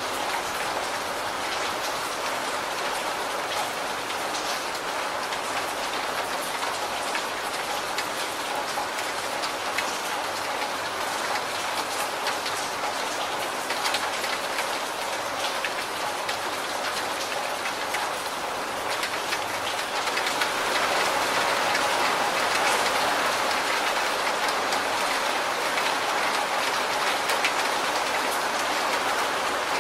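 Steady rain falling on a corrugated roof and leaves, with water streaming off the roof edge, a dense hiss full of separate drop taps. The rain grows a little louder about two-thirds of the way through.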